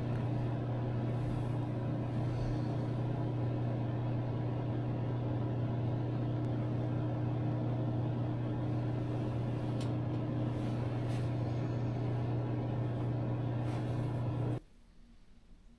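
Steady low machine hum with a constant low tone and fainter higher tones, which cuts off suddenly near the end.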